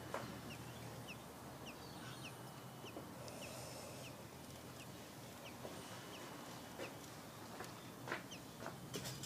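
A bird giving a series of short, soft, high calls, each a quick downward slide, about two a second, then falling quiet, with a few faint clicks.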